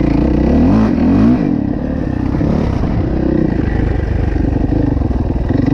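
Dirt bike engine under way on a trail. It revs up with a rising pitch in the first second or so, then runs on at a fairly steady speed.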